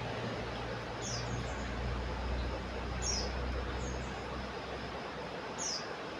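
Common iora (cipoh) calling: short, high, falling chirps repeated about every two seconds over steady background hiss, with a low hum that fades out after about four seconds.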